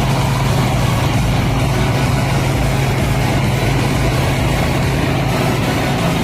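Rice combine harvester's diesel engine running steadily, with a constant low hum under a broad mechanical noise.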